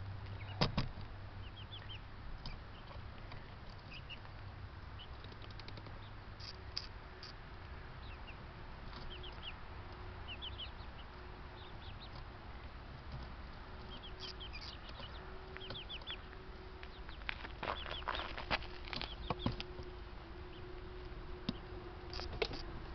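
Chickens clucking, with many short high peeps and several sharp knocks, over a faint steady hum.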